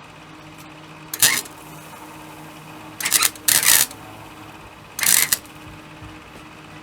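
MIG welder putting short tack welds into replacement sheet steel: four brief bursts, each under half a second, the middle two close together.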